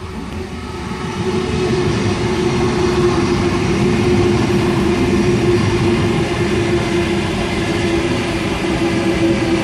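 Eight-car electric train (two coupled H-set OSCAR units) running through the station. Its sound builds over about the first second into a steady loud rumble of wheels on rails with a steady drone running through it.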